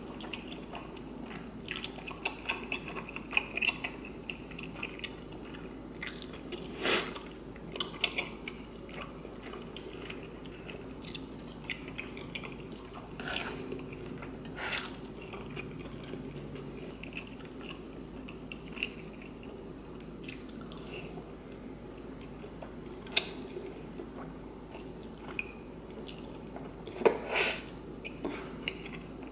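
Close-up chewing of chewy rice cakes and noodles in spicy sauce, with scattered sharp clicks and smacks, the loudest near the end, over a faint steady hum.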